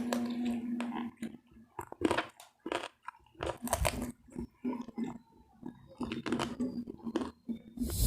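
Close-miked chewing and biting of crispy fried pork belly (lechon kawali): irregular crackly crunches with short pauses between bites, over a faint low hum.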